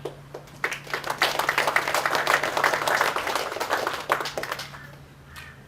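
Audience applauding, a spell of scattered clapping that swells and then dies away near the end.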